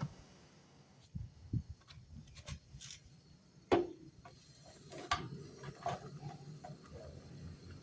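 Scattered light clicks and taps of tools and parts being handled, with one sharper knock a little under four seconds in.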